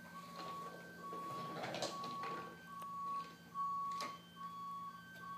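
Repeating electronic beeping, about one tone a second alternating with a fainter, higher one, over a steady low hum, with a few faint knocks.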